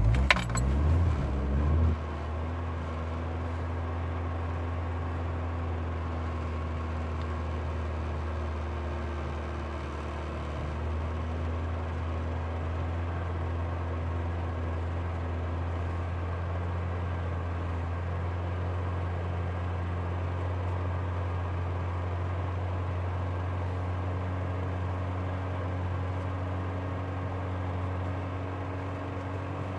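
1988 Volkswagen Jetta A2's 1.8-litre four-cylinder petrol engine firing up from a cold start at −3 °C: loud and uneven for the first two seconds, then settling into a steady, raised cold idle.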